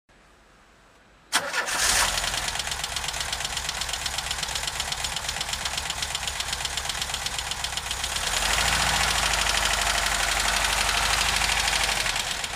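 VW Vanagon (T3) engine starting about a second in, catching at once, then running with a fast, even knocking and ticking. It runs louder for a few seconds near the end.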